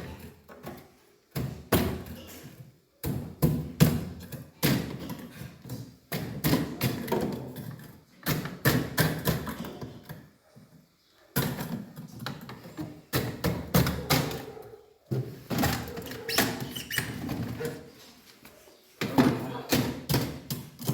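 Knife blade striking and chipping thick frozen ice in a refrigerator freezer: repeated sharp knocks coming in bursts.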